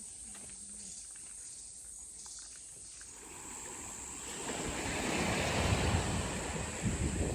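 A faint outdoor hush, then a rushing noise that swells from about three seconds in, with low rumbling gusts near the end.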